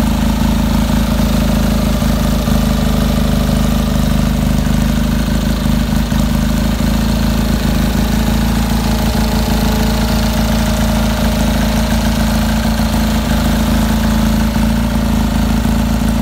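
Tuned 700cc Fiat 500/126 air-cooled two-cylinder engine idling steadily on a test stand, heard through its stainless steel exhaust headers and silencer.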